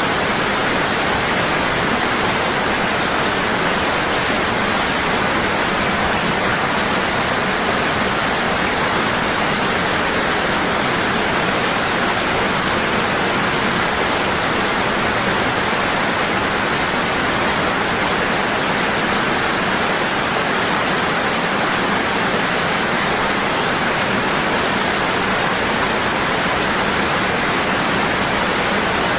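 Waterfall pouring hard and constantly: a steady, unbroken rush of falling water.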